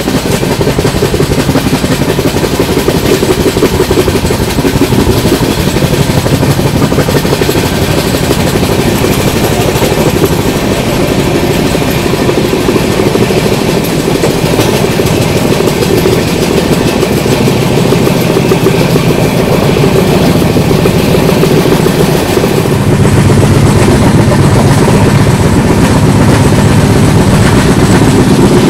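Passenger express train running at speed, heard from inside a coach: steady rumble of wheels on the rails. About three-quarters of the way through the sound grows louder and deeper.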